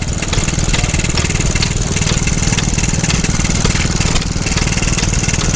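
Vintage stationary engine running steadily, with a rapid, even exhaust beat.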